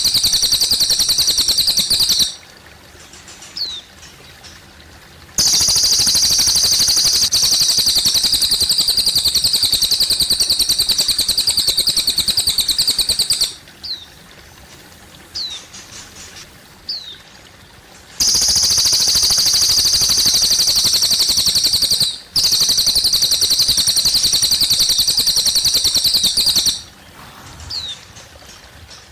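Cililin bird singing long, rapid, high-pitched trills lasting several seconds each, four in a row with short pauses between them. In the pauses a few brief rising chirps and a soft trickle of water are heard.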